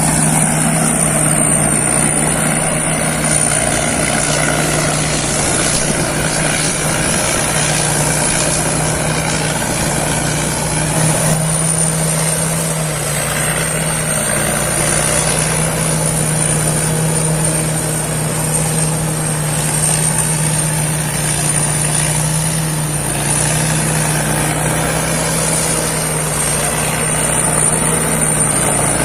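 Rice combine harvester running steadily, its engine a continuous drone with a thin high whine wavering slightly in pitch above it.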